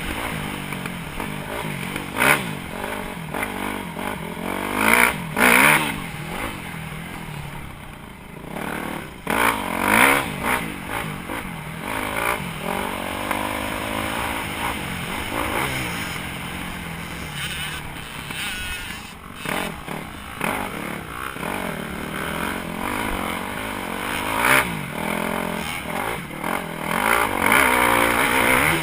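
Motocross dirt bike engine revving up and down, its pitch rising and falling repeatedly through the gears, with several brief louder bursts.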